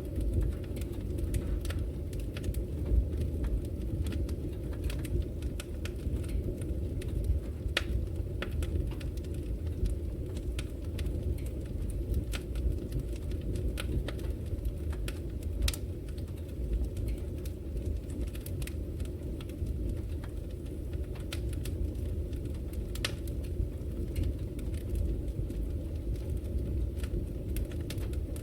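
Wood fire burning in a fireplace: a steady low rumble of flames with frequent, irregular crackles and sharp pops from the burning logs.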